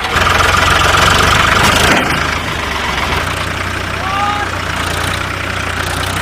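Tractor engine running steadily, louder for about the first two seconds, then settling into an even idle.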